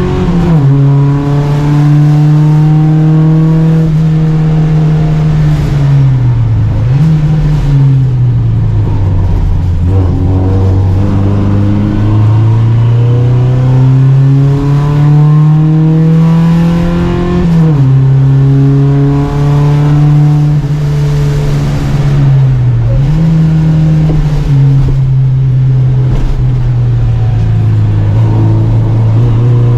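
Volvo Amazon 121 race car engine at racing speed, its note climbing under acceleration and dropping sharply several times as the driver shifts gear or lifts for corners.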